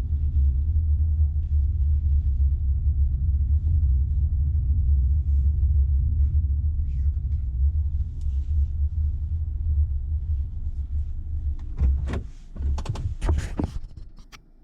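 Low, steady rumble of a car's engine and road noise heard inside the cabin as the car creeps along. About twelve seconds in the rumble dies away and a few sharp clicks and knocks follow.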